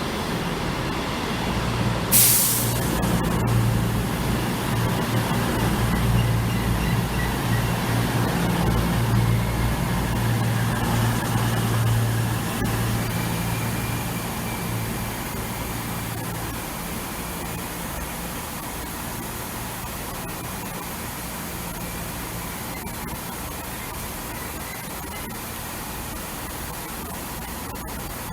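The underfloor diesel engines of a CrossCountry Class 220 Voyager diesel multiple unit running as the train arrives, with a short sharp hiss about two seconds in. The engine sound dies away after about sixteen seconds, leaving a steady noise.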